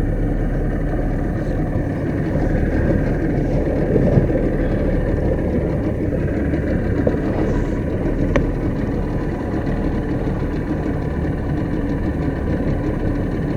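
Boat engine running steadily at low trolling speed, a constant rumble, with a single sharp click about eight seconds in.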